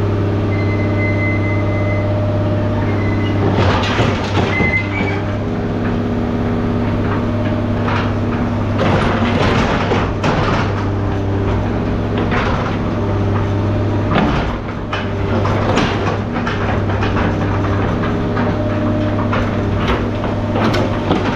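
An engine running steadily, with repeated clanks and bangs of scrap metal from about four seconds in.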